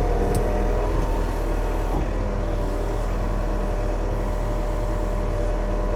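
Yanmar diesel engine idling steadily, with a faint click about a third of a second in.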